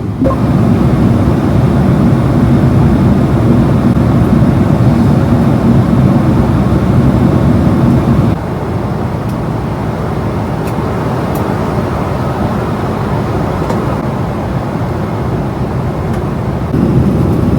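Steady in-flight cabin noise of a Boeing 777-300ER airliner, the low, even rush of engines and airflow. It drops in level about eight seconds in and comes back up near the end.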